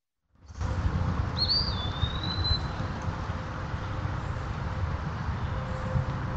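After a brief silent gap, a steady low rustling hiss of outdoor background comes through the trail camera's microphone. About a second and a half in there is one whistled bird call that rises, dips and then holds level for about a second.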